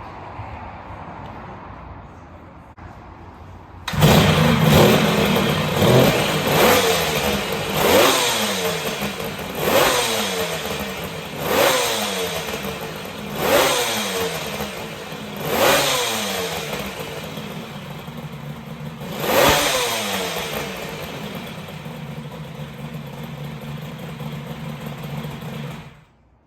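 Kawasaki 350SS air-cooled two-stroke triple starting for the first time after an engine overhaul, fed premix fuel by drip. It bursts into running about four seconds in, is revved in about nine sharp blips that each die back down, then settles to a steady idle and cuts off just before the end.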